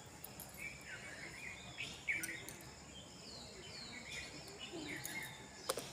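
Birds calling with short chirps that slide down in pitch, one after another, over a steady faint high tone. A sharp click near the end.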